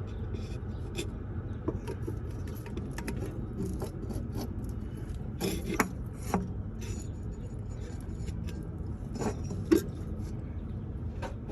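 Scattered light clicks, clinks and scrapes of tools and metal parts being handled, over a steady low rumble.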